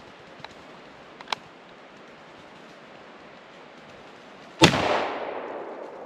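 A single shotgun shot about four and a half seconds in, its report echoing and fading for over a second.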